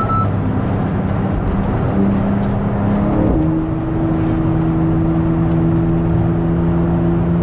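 Car engine running under way with steady road and tyre noise. The engine note shifts to a new pitch about three seconds in, then holds steady.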